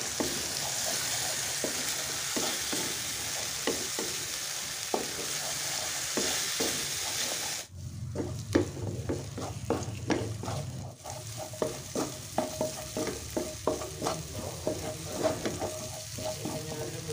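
Ground yellow spice paste sizzling in oil in a nonstick frying pan while a wooden spatula scrapes and stirs it, the paste being sautéed until cooked. About eight seconds in the sizzle suddenly drops, leaving quieter frying under quicker scraping strokes.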